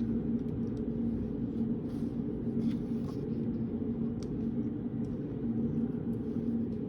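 Steady low hum and rumble of a reading room's background noise, with one constant low tone, and a few faint, light ticks over it.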